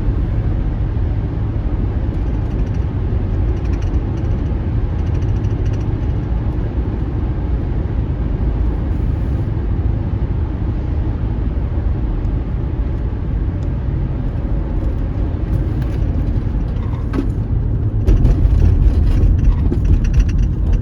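Steady low rumble of road and engine noise inside a moving car's cabin, getting louder about three seconds before the end.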